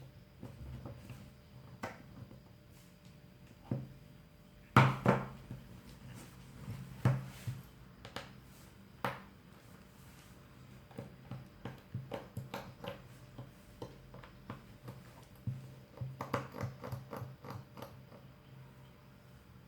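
Scattered clicks, taps and small knocks of hands and small tools handling a Samsung Galaxy Note 2 smartphone as it is taken apart. The loudest knocks come about five seconds in, with a busier run of light clicks near the end.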